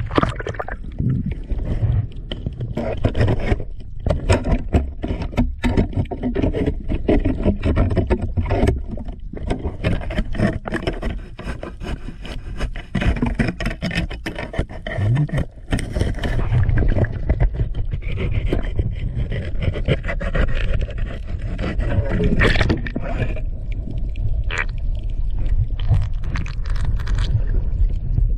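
Water splashing and sloshing around the camera as a swimmer moves at the surface, with many scraping and knocking handling noises against the camera.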